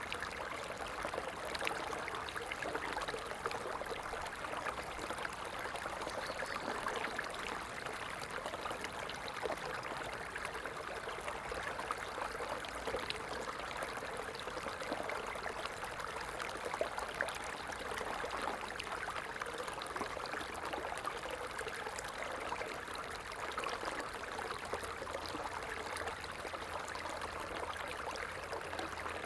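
A stream flowing steadily, a continuous babble of running water.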